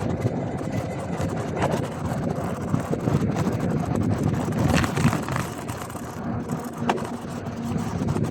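Wind buffeting the microphone over the rolling noise of a gravel bike's tyres on a wet surface, with scattered small clicks and knocks.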